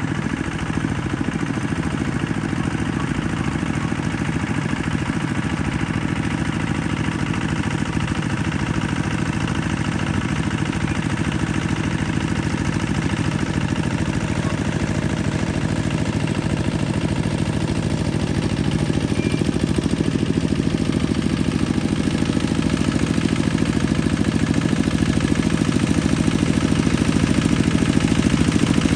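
Yanmar RT165 tractor's diesel engine running steadily with a rapid low chugging, pulling a plough. It grows slightly louder about two-thirds of the way through.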